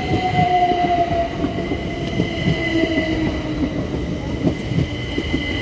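Electric multiple-unit passenger train moving at the station: a low rumble under steady high whines. Its motor tone falls slowly in pitch, as the train slows.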